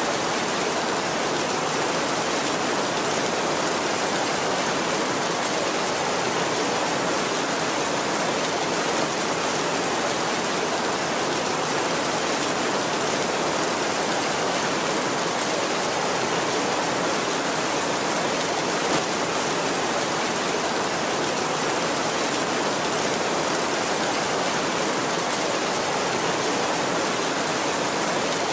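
Heavy rain falling steadily on a tin roof, a dense, even hiss with no let-up.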